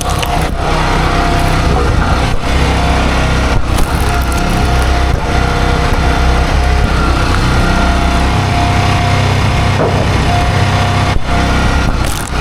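Small gasoline engine of a log splitter running steadily, with a constant whine above the engine's rumble.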